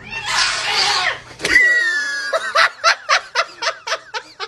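A rush of hissing noise for about a second and a half, then a person laughing in quick repeated bursts that start about two and a half seconds in.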